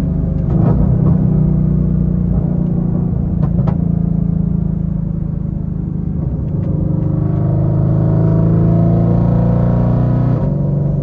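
Twin-turbo GT500's V8 engine running under load, steady at first, then climbing in pitch and loudness about seven seconds in before dropping off sharply near the end.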